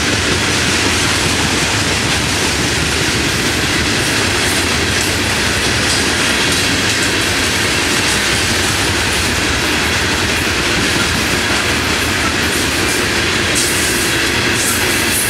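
Freight train of open-top steel hopper cars rolling steadily past close by: a loud, unbroken rumble and clatter of steel wheels on the rails.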